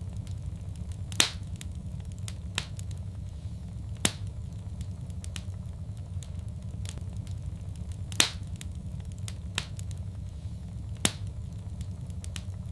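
Wood fire in a fireplace crackling: a steady low rumble of burning with frequent small clicks and half a dozen louder, sharper pops scattered through.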